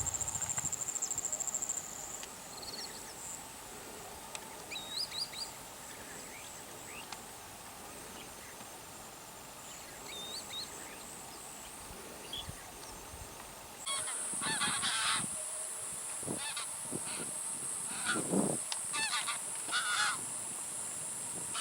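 A flock of geese honking in repeated bursts, louder and more frequent in the second half, over a steady high-pitched insect buzz.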